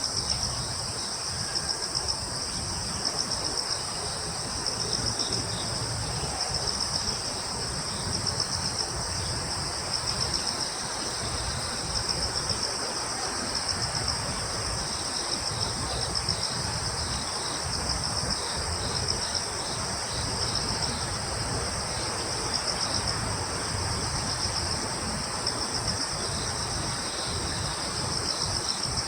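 Crickets chirping steadily in two high pitches, one of them pulsing about once a second, over a low rumble of breeze.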